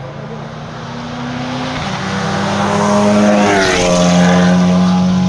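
Hill-climb competition car approaching at full throttle, its engine growing steadily louder, with a gear change about two seconds in. It passes close by just before four seconds, the pitch dropping as it goes, then carries on up the course at a steady high drone.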